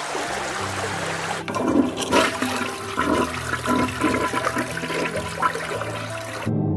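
Loud rushing, gurgling water sound like a flush or gush, over low held musical tones; it turns more turbulent about a second and a half in and cuts off suddenly near the end.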